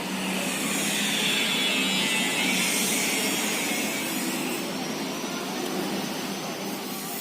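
Motor vehicle noise: an even rushing sound that swells over the first couple of seconds and slowly fades, like traffic passing close by.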